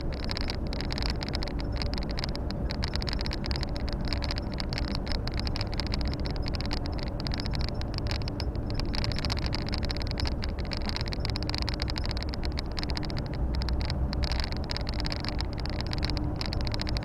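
Volvo FH 460 truck's 13-litre six-cylinder diesel engine running steadily under way, with the steady rumble of road and tyre noise, heard from inside the cab.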